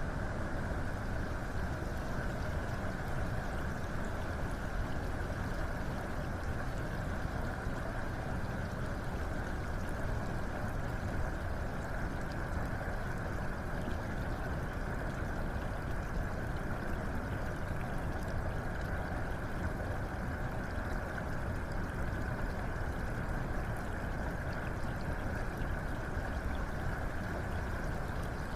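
Steady running water, a continuous rushing with a deep rumble and no breaks.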